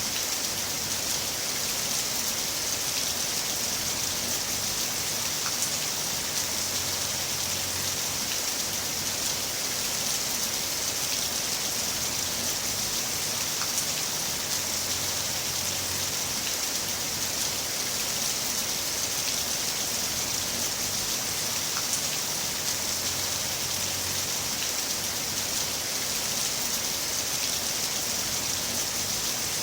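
Heavy rain falling steadily: an even hiss with fine drop ticks scattered through it, unchanging throughout.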